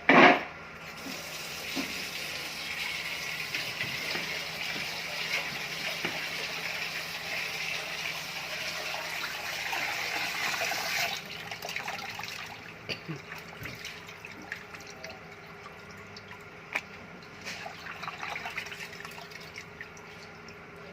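Kitchen tap running into a sink as raw chicken pieces are rinsed under it, starting with a short loud burst. The water shuts off abruptly about eleven seconds in, leaving drips and small knocks of the pieces being handled.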